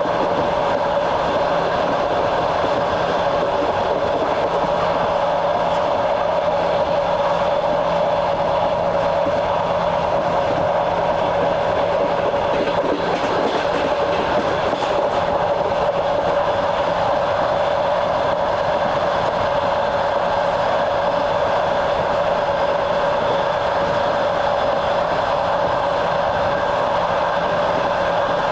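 Train running along the track, heard on board: a steady rolling noise from the wheels and rails, with a steady hum over it.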